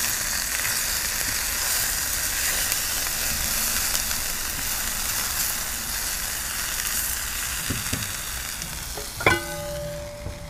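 Chicken pieces sizzling steadily in a hot pan as they are stirred and turned over. Near the end the sizzle softens, and a single metal clink rings briefly.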